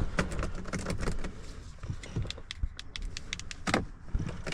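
Clicks and light rattles of hands working the controls of a dead pickup's cab, with a key fob jangling and a louder knock about three and a half seconds in; no engine or chime answers, as the truck has no power.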